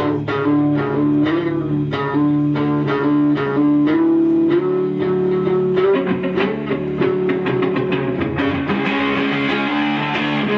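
Live rock band playing an instrumental passage with no vocals: guitars strumming and holding notes over bass guitar, with a steady rhythmic pulse of strokes, the texture brightening about eight seconds in.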